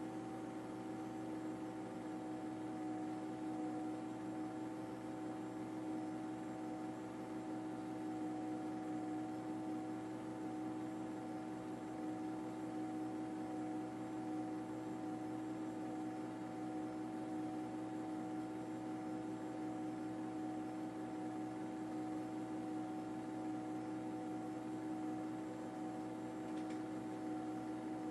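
A steady mechanical hum with several fixed tones over a light hiss, unchanging throughout.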